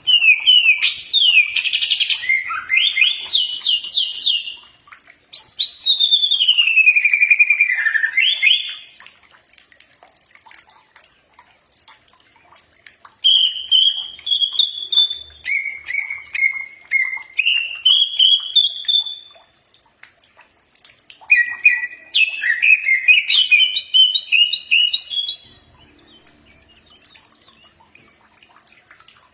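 Green leafbird (cucak ijo) singing: three bouts of loud whistled song made of quick sliding and stepping notes, with pauses of a few seconds between them.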